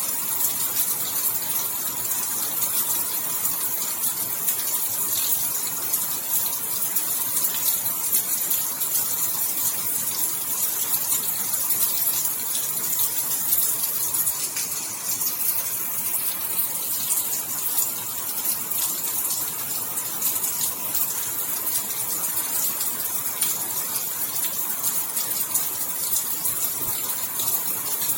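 Steady heavy rainfall, a dense even hiss of falling water with fine crackling drops.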